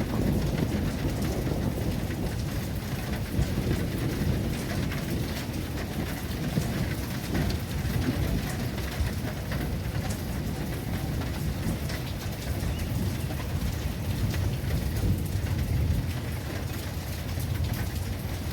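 Heavy rain falling steadily, with many small drop ticks over a deep, continuous low rumble.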